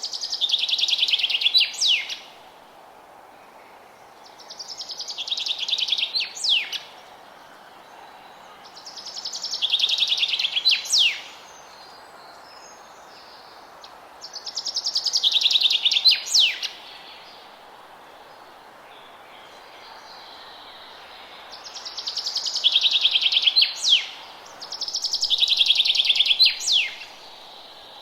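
A songbird singing the same song phrase six times, every four to five seconds: each phrase is a rapid trill about two seconds long that grows louder and ends in a quick downward flourish. A faint steady background hiss lies under the song.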